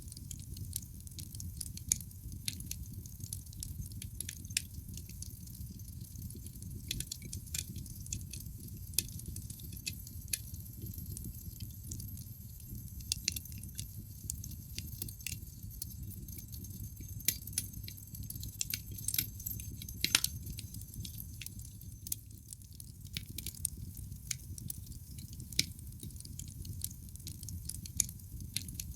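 Wood fire crackling in a fireplace: irregular sharp pops and snaps from the burning logs over a steady low rumble of the flames, with one louder pop about twenty seconds in.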